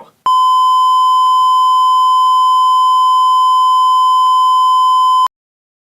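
A loud, steady 1 kHz sine tone, a broadcast off-air or censor tone, sounds just after the shout to cut the feed and holds for about five seconds, marking the transmission being cut. It stops abruptly and is followed by dead silence.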